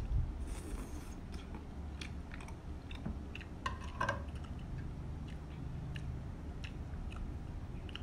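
A person chewing a mouthful of instant curry noodles, picked up close by a clip-on microphone: wet mouth clicks throughout, with a brief slurp just under a second in.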